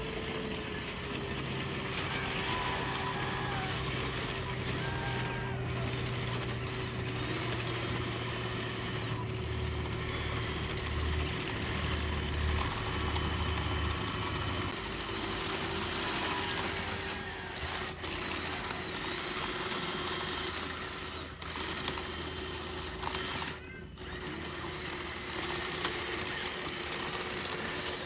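Electric motors and gearboxes of radio-controlled construction models running, a steady whine with shorter higher-pitched whines that come and go as the machines move.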